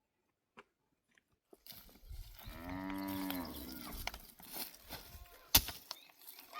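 A cow mooing once, a long drawn-out call about two and a half seconds in, followed a couple of seconds later by a single sharp knock.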